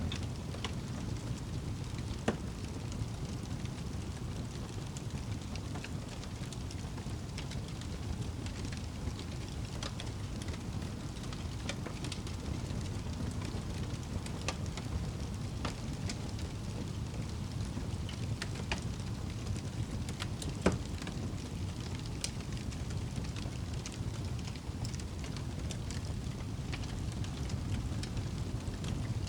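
Wood fire burning in a fireplace: a steady low rumble of flames with scattered sharp crackles, and two louder pops, one about two seconds in and one about two-thirds of the way through.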